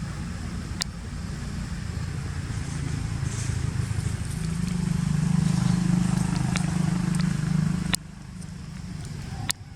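A low mechanical rumble that swells over a few seconds, then drops off sharply about eight seconds in, with a few sharp clicks scattered through it.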